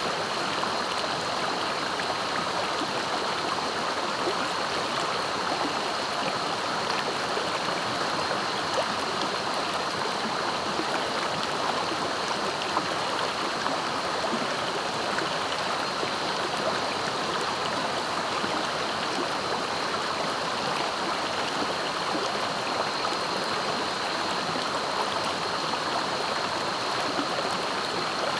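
Swiftly flowing river: a steady, unbroken rush of water.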